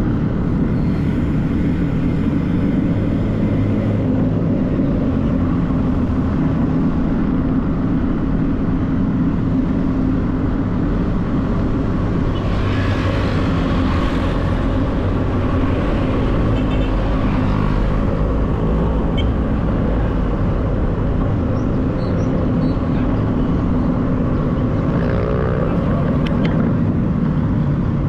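City road traffic heard from a moving bike: a steady low rumble of vehicle engines, with a vehicle passing close about halfway through and a brief rising engine note near the end.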